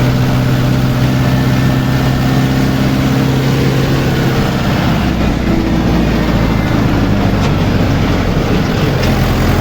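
Mahindra 415 DI SP Plus tractor's diesel engine running while driving on the road, a steady low engine note that shifts lower about halfway through, over constant road noise.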